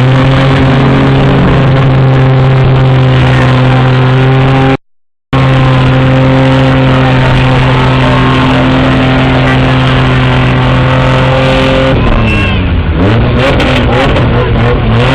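Mud truck's engine running loud at a steady high pitch, held for many seconds. The sound cuts out completely for about half a second around five seconds in. Near the end the pitch drops and swings up and down as the revs fall and rise.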